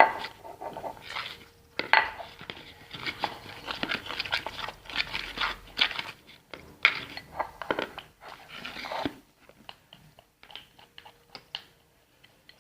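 Spoons stirring sticky slime in plates: irregular wet squelches and clicks, with occasional spoon taps on the plate. The glue and borax mixture is starting to clump and firm up.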